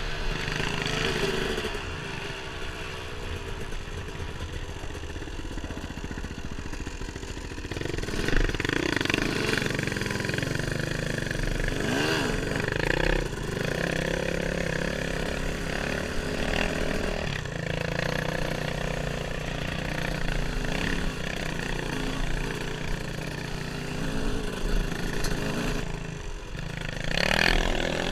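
Dirt bike engine running while being ridden, its pitch rising and falling as the throttle opens and closes. It gets louder about eight seconds in, and there are sharp bursts of revving near the end.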